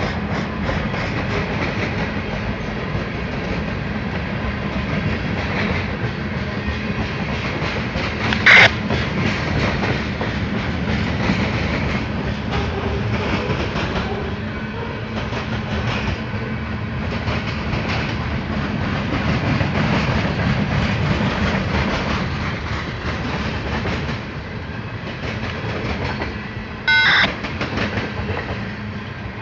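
Railroad cars rolling past on the track with a steady rumble and clickety-clack of wheels over the rails. Two brief, sharp, louder noises stand out, one about eight seconds in and one near the end.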